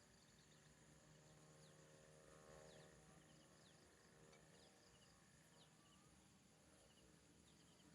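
Near silence: faint outdoor background with scattered short bird chirps.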